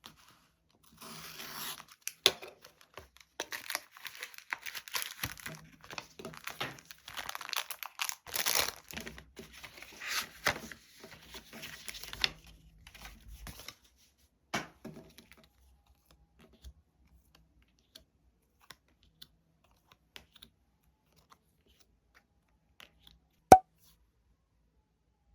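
Parcel packaging being torn and crinkled open by hand, in bursts of tearing for about twelve seconds. Then a few light handling clicks, and one sharp click near the end.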